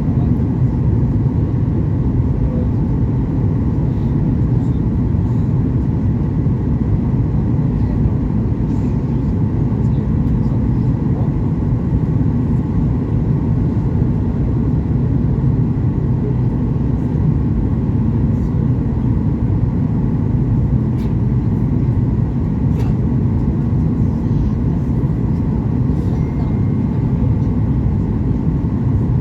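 Steady cabin noise inside a Boeing 737 MAX 8-200 airliner in flight, a constant low rush from its engines and the airflow around the fuselage.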